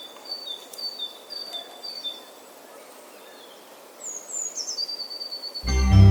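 A bird chirping, repeating a high two-note call about twice a second, then a few quick falling chirps. Keyboard music comes in loudly near the end.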